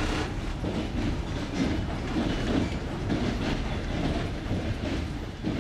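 Passenger train wheels clattering over jointed rail joints: a repeated clickety-clack knocking over the steady rumble of the carriage running on the track.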